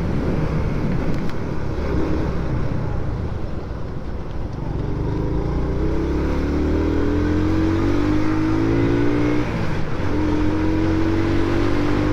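Motorcycle engine under way, its pitch rising as it accelerates for several seconds, breaking off briefly a little after the middle, then holding steadier, over a low rumble of road and wind.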